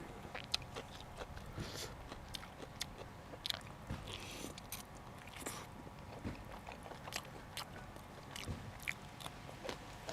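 A person chewing and biting food, with irregular crisp crunches and mouth clicks.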